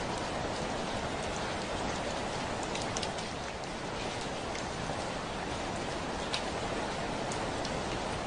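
Steady heavy rain hissing on a window pane, with scattered sharp drop ticks.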